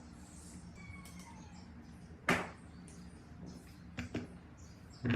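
Several sharp knocks and clinks of metal pump parts and hand tools being handled, the loudest about two seconds in, over a steady low hum.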